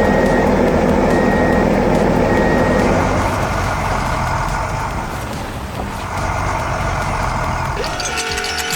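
Truck engine running with a steady rumble, with three short reversing beeps about a second apart at the start. Music comes in near the end.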